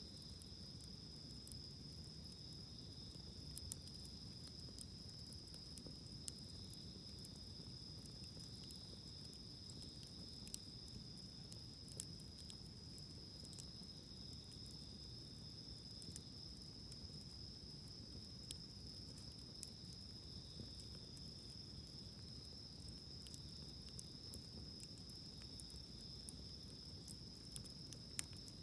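Insects chirring in one unbroken high trill, with a wood campfire crackling underneath in scattered sharp pops, a couple of them louder about ten and twelve seconds in.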